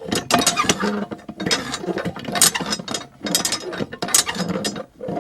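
Irregular mechanical clicking and rattling, in quick uneven runs with brief pauses.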